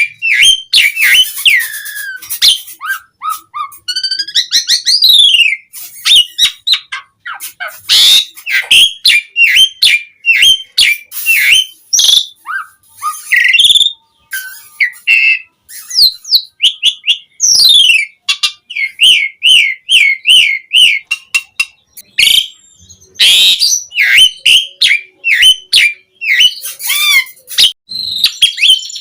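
Asian pied starling (jalak suren) singing a long, fast, varied song of whistles, chirps, sharp clicks and rising and falling whistled glides, with mimicked phrases of other birds worked in. Partway through it repeats one short note in a quick run.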